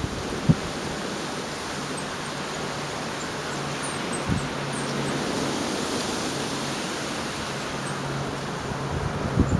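Gale-force storm wind rushing steadily, with brief gusts buffeting the microphone about half a second in, around four seconds in and near the end. A faint steady low hum runs underneath through the middle.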